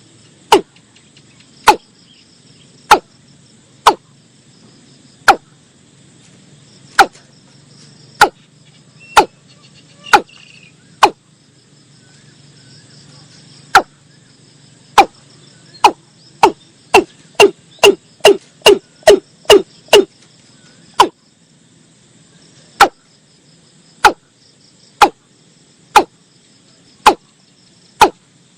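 Watercock calling: short, sharp notes that drop in pitch, repeated about once a second, quickening into a fast run past the middle, then slowing again. A faint steady insect hiss runs underneath.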